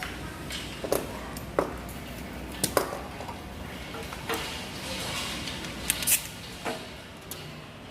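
Scattered metallic clinks and knocks, about eight of them at irregular intervals, from hand tools and parts being handled during engine tune-up work, over a steady low background hum.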